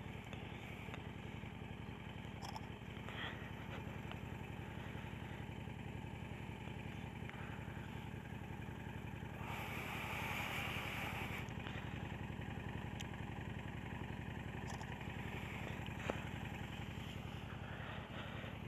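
Motorcycle engine running at a steady, unchanging speed. A brief rush of hiss comes about halfway through.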